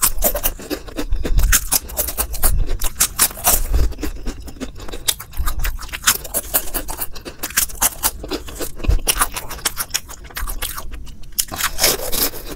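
Crisp, puffed corn-ring snacks (Crax rings) being bitten and chewed close to a lavalier mic: a rapid, irregular run of crunches.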